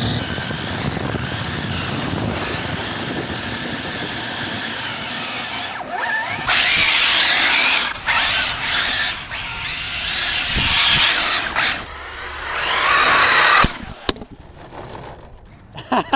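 Arrma Felony 6S RC car's brushless electric motor and drivetrain whining, the pitch rising and falling as the throttle is worked. It is loudest in the middle, sweeps up a little after twelve seconds in, then drops off and goes quieter near the end.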